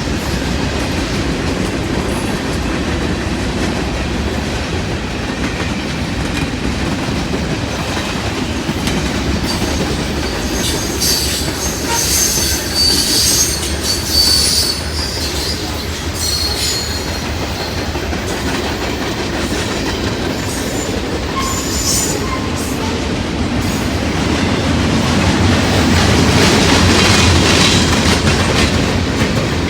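Railroad cars rolling past with a steady rumble and clickety-clack of wheels over the rails. High-pitched wheel squeal comes in bursts in the middle, and the rumble grows louder near the end.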